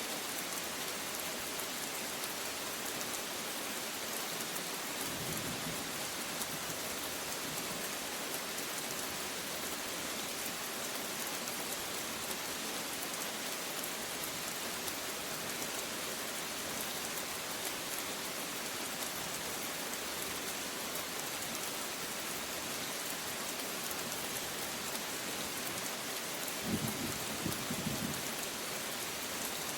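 Steady rain falling on a surface, an even hiss of drops. Near the end comes a brief low rumble of thunder.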